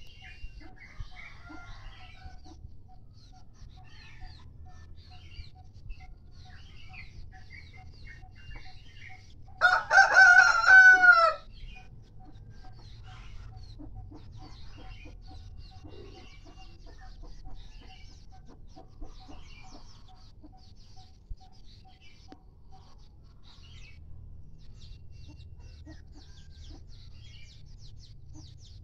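A kampung rooster crowing once, loud, about ten seconds in, the crow lasting under two seconds. Around it, faint bird chirps and a steady faint repeated peeping.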